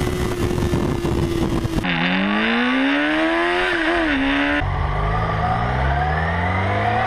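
Onboard motorcycle engine sound with wind noise, in spliced segments. First a steady engine note. Then, after a sudden cut, the engine revs up with a brief dip in pitch like a gear change. Then, after another cut, a lower engine note slowly climbing in pitch as the bike accelerates.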